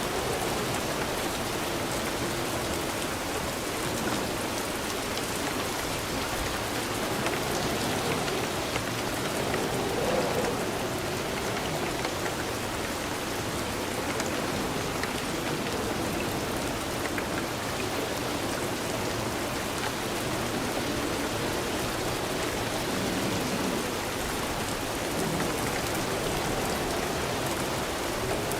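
Steady rain falling on a surface, with a constant wash of patter and scattered drops.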